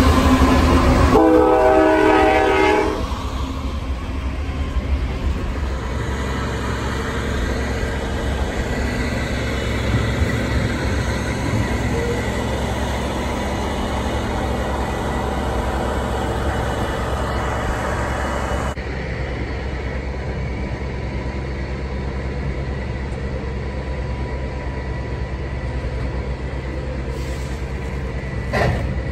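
Norfolk Southern diesel freight train passing. A multi-note locomotive horn sounds for about two seconds near the start, then the train's steady rumble and rolling wheel noise carries on as the cars go by.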